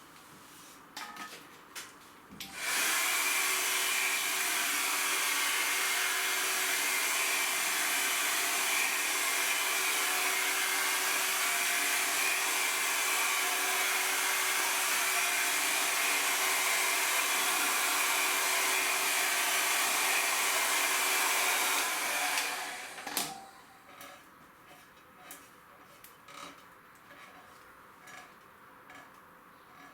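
A handheld electric blower, of the hair-dryer kind, switches on a couple of seconds in and runs at a steady pitch for about twenty seconds before switching off. A few light clicks and knocks of handling follow.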